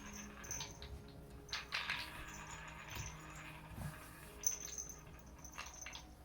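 Cats playing with their toys: scattered light taps, clicks and rustles, with the loudest knock about four and a half seconds in.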